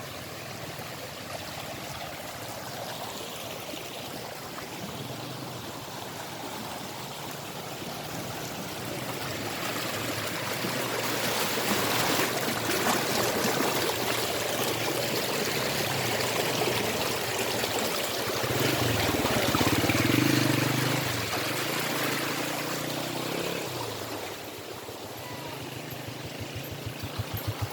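Stream water running and trickling, growing louder through the middle and easing off again toward the end.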